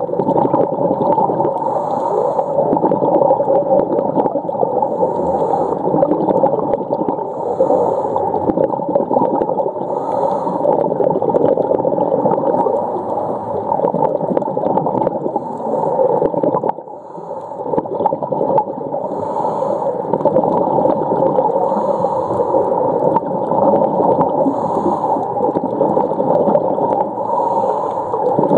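Humpback whale song heard underwater, a continuous muffled moaning sound with a brief drop about seventeen seconds in.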